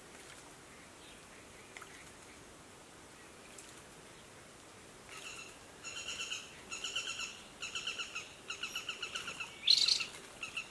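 A bird calls in five short bursts of rapid, rattling repeated notes, starting about halfway through, then gives one louder, sharper rising note near the end. Before the calls there are a few faint small splashes of water.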